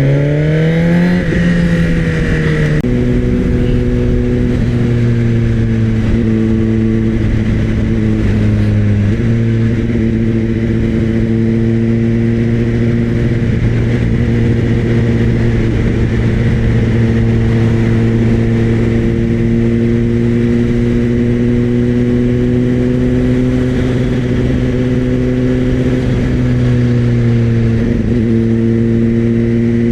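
2024 Suzuki GSX-R1000's inline-four engine through a LeoVince slip-on exhaust, accelerating with rising pitch and upshifting twice in the first three seconds, then holding a steady cruise.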